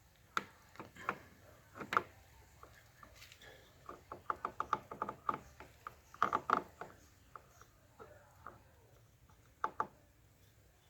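Sharp metallic clicks and knocks from hand work on motorcycle clutch parts. There are a few scattered clicks, a quick run of clicks about four seconds in, a louder cluster just past six seconds and a double click near the end.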